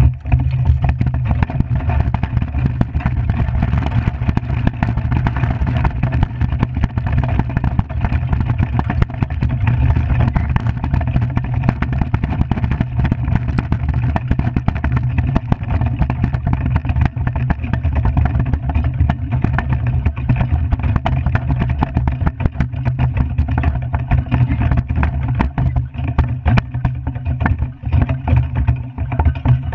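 Skimmer 45 iceboat underway on the ice: a loud, steady low rumble from its runners and wind, with a constant fine crackle, starting abruptly at the beginning.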